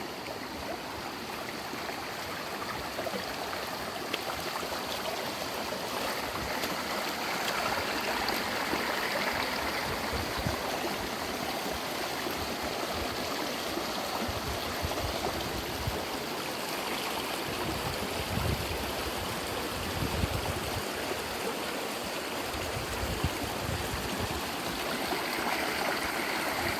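Stream water flowing and burbling steadily, with some low rumbling now and then in the second half.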